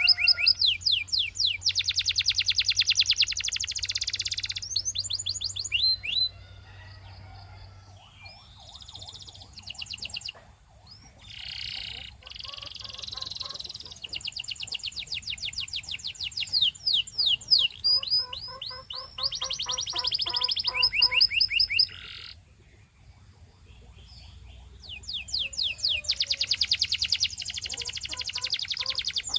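Canary singing a long song of fast trills and repeated notes, changing tempo from phrase to phrase, with softer passages in the middle and a short pause about three quarters of the way through.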